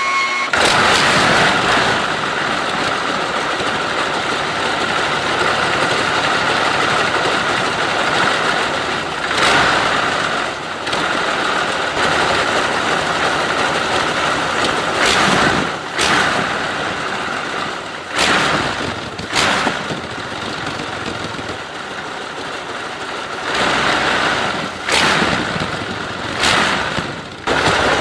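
The BMW V12 aircraft engine of the Brutus car running, revved in short loud surges several times.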